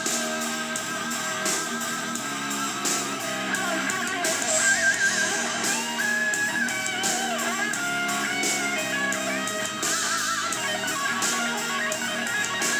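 Guitar-led pop music played back through a UE Roll 2 Bluetooth speaker, with very little deep bass.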